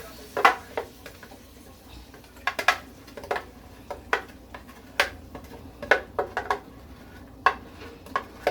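A cooking utensil knocking against a pot as the food is stirred: irregular sharp clinks, roughly one a second, sometimes two close together.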